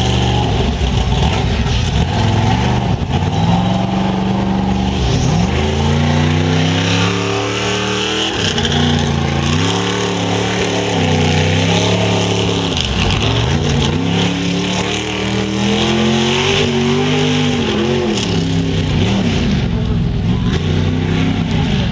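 Monster truck engine revving hard again and again, its pitch climbing and falling in about half a dozen swells.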